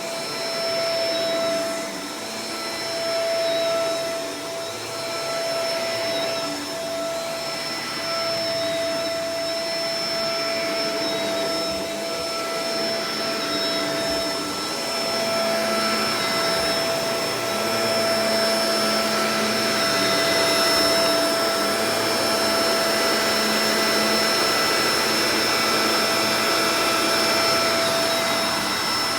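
Shark Professional Powered Lift-Away DLX (NV586) upright vacuum cleaner running continuously, with a steady motor whine over the rush of air. It gets slightly louder about halfway through.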